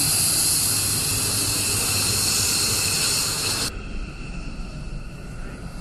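Jet aircraft noise: a steady, loud rushing hiss that cuts off abruptly a little over three and a half seconds in, leaving a quieter, low rumble.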